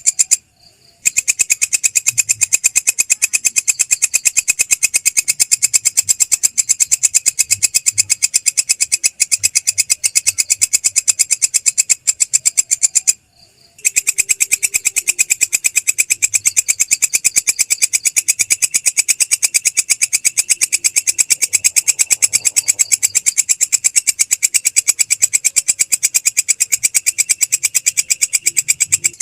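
Belalang krek insect calling: a rapid, unbroken train of even, high-pitched chirping pulses. It pauses briefly about half a second in and again about 13 seconds in.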